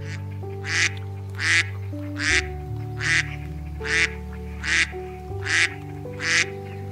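Duck quacking in a steady series, about eight quacks a little under a second apart, over soft background music.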